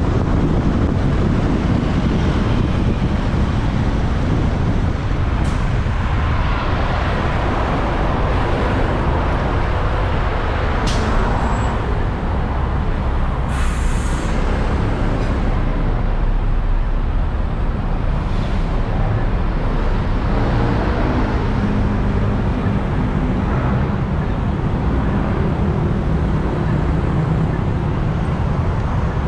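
Motorbike riding through city traffic: steady road and wind noise with the bike's engine and the traffic around it, and a short high hiss about fourteen seconds in.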